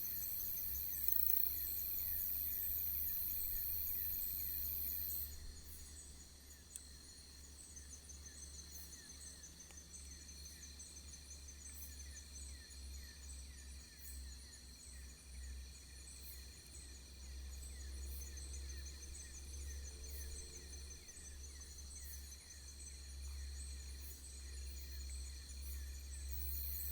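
Insects chirping in a steady chorus of fast, evenly repeating high chirps, over a constant low rumble. A loud high hiss on top stops suddenly about five seconds in.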